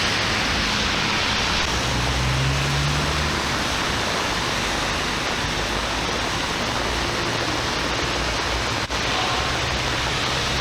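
Steady rushing of water from floodwater and rain, an even roar with no break.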